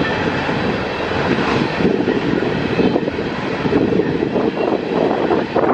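Empty open-top coal cars of a freight train rolling past: a steady rumble with irregular clatter of steel wheels on the rails and loose-riding empty car bodies.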